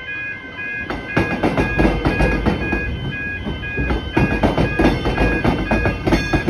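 Level-crossing warning bells ringing in steady, evenly repeating pulses while a Melbourne Metro X'Trapolis 100 electric train passes. From about a second in, its wheels rumble and clatter loudly over the crossing and the tram-track diamond.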